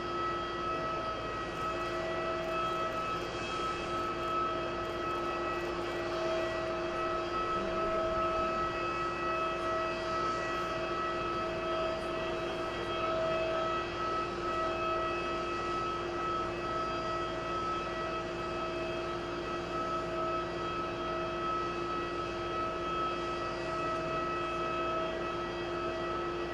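Aircraft engines running steadily: a constant whine of several steady tones over a broad rush, with no change in pitch.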